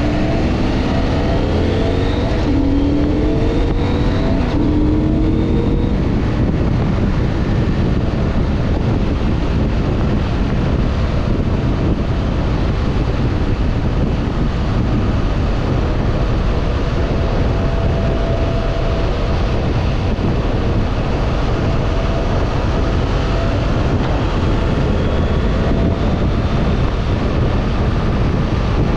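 CFMoto IBEX 800 E motorcycle's parallel-twin engine accelerating through three gears in the first few seconds. Its pitch climbs and drops back at each upshift, then it settles into a steady cruise under heavy wind rush on the microphone.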